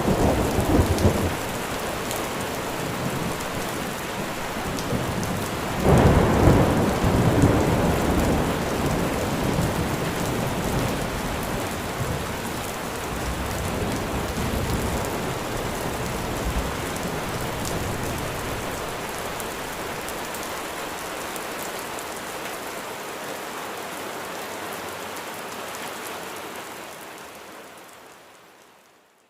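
Steady rain falling at night, with thunder rumbling at the start and again about six seconds in; the rain fades out near the end.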